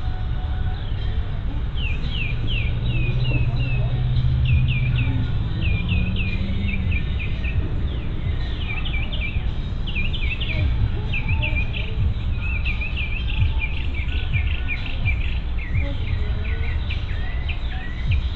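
Birds singing in runs of quick, falling chirps, repeated again and again, over a steady low rumble. A low hum swells and fades between about two and seven seconds in.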